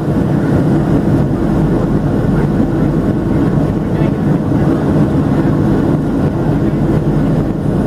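Steady cabin noise inside a Boeing 737-700: a dense, even rumble from its CFM56-7B jet engines and the airflow over the fuselage, heavy in the low and lower-middle range.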